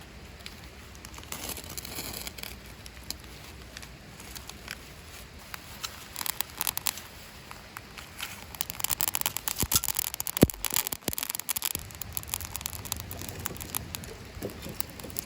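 A campfire being lit: kindling and tinder rustling, scraping and crackling. A dense run of sharp crackles comes about nine to eleven seconds in.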